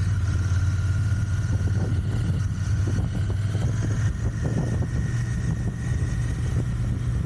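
Royal Enfield Continental GT 650's parallel-twin engine running at a steady cruise through its stock exhaust, a steady low engine note.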